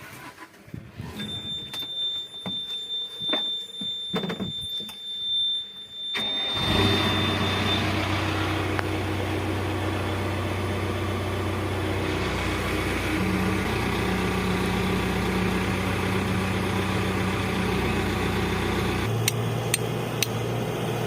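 Clicks and a steady high beep, then an engine starts about six seconds in and runs steadily.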